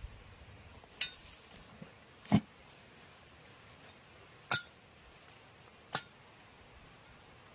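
Hard kitchenware clinking four times, a second or two apart; the second strike is the loudest and duller, more of a knock.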